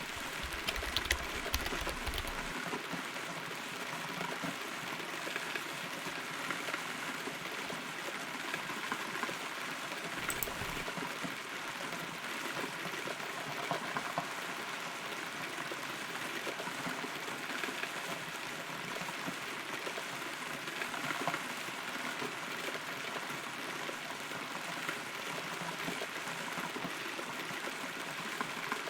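Rain falling on and around a hollow rotten tree, heard from inside the trunk: a steady hiss of rainfall with scattered sharper drops ticking on the wood, most of them in the first couple of seconds.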